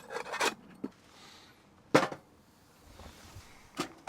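Four or five separate sharp knocks and clunks from objects being handled, the loudest about two seconds in, with quiet between them.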